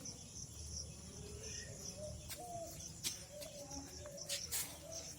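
Outdoor ambience of insects chirring steadily with bird calls, and a few sharp clicks in the middle.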